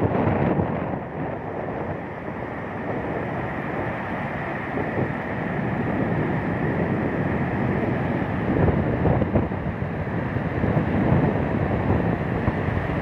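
Sea surf breaking and wind buffeting the microphone: a continuous rushing noise that grows louder through the second half.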